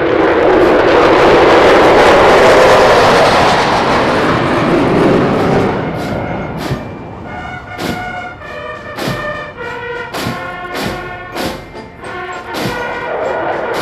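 A loud aircraft roar swells and fades over the first five or six seconds. After that a military brass band plays a march over regular drum beats.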